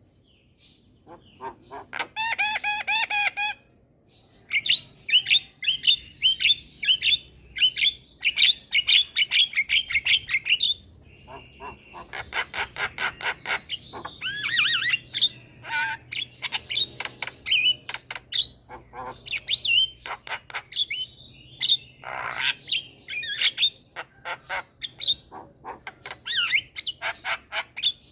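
Javan myna singing a loud, varied chattering song: fast runs of clicking notes and whistled phrases broken by short pauses, with a harsh squawk a little past the middle.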